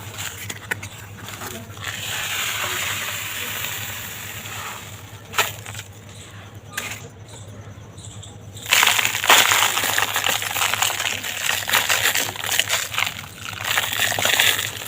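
Dry, dusty material being crumbled, with crackling and crunching. There is a quieter stretch in the middle and denser, louder crunching from about two-thirds of the way through.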